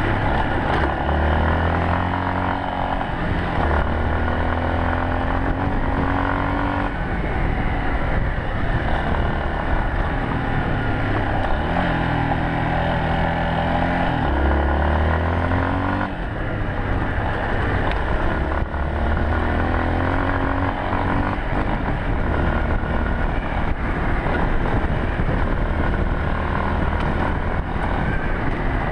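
Yamaha Serow 250's single-cylinder engine running on the move, its pitch rising again and again as it accelerates, over a steady rushing noise.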